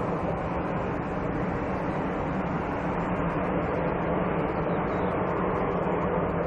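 Jet airliner engines running, a steady noise that holds at one level without rising or fading.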